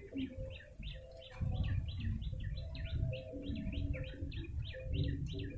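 Prenjak lumut singing a fast run of sharp repeated chirps, about four a second, played as a lure call for trapping this bird. A low rumble and hum run underneath.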